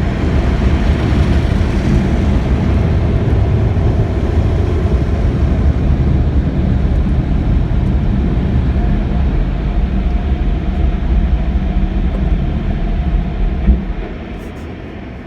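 Tunnel car wash air dryers blowing hard on the car, heard from inside the cabin as a loud, steady rush. It drops away sharply about fourteen seconds in as the car clears the blowers.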